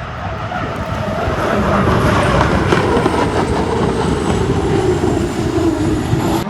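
Turbine-powered H1 Unlimited hydroplane running at racing speed: a loud, dense engine noise that builds over the first two seconds and holds, with a thin high whine slowly falling in pitch.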